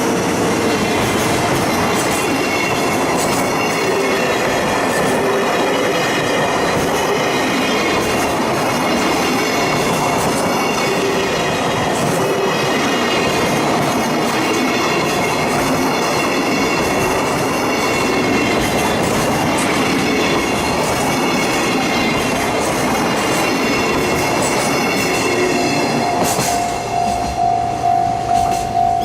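Freight train of Koki container flat wagons rolling past, a steady rumble of wheels with high, wavering wheel squeal and rail clatter. Near the end the train noise drops away, leaving a ringing tone that pulses about twice a second.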